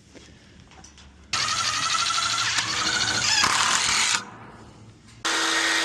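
A handheld power tool running in two bursts: one of about three seconds, then a shorter one of about a second, with its pitch rising briefly in the first.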